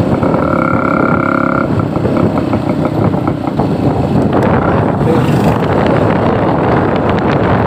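Road vehicle driving along in traffic, with steady engine and road noise. A steady pitched tone sounds for about a second and a half near the start.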